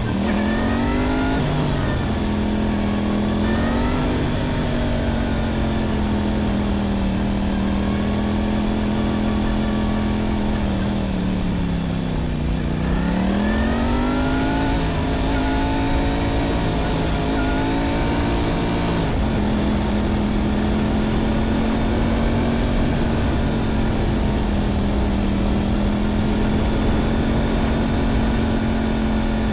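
Motorcycle engine running under way. Its pitch holds fairly steady, dips and climbs again about twelve seconds in, and then steps once a few seconds later.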